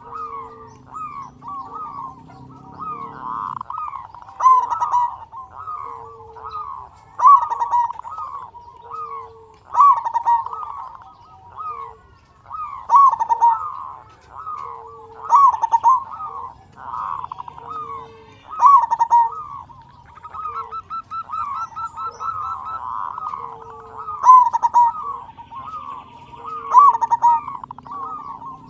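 Zebra dove (local perkutut) cooing over and over in rhythmic phrases of quick notes, with a loud phrase about every three seconds.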